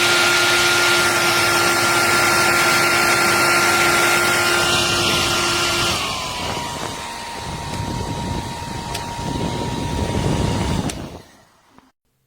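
Remington Thermacare PRO 2300 (D5715) hair dryer running, a loud rush of air with a steady motor whine. About six seconds in the whine drops in pitch and the airflow gets quieter as the dryer goes to a lower fan speed. It is switched off near the end and winds down to silence.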